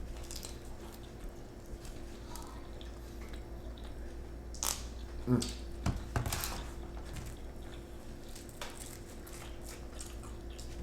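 People chewing and biting into spicy chicken nuggets: scattered small wet clicks and mouth noises, a few louder a little before the middle, over a faint steady hum.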